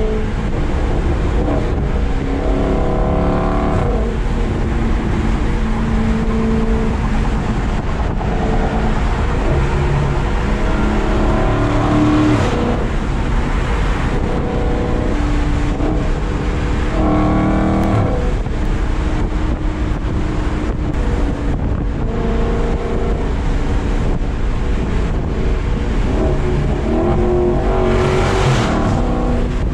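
Dodge Charger Daytona 392's 6.4-litre HEMI V8 cruising at highway speed, heard from inside the cabin: a steady exhaust drone over road and wind noise. The engine note rises and falls several times, around 3, 12, 17 and 28 seconds in.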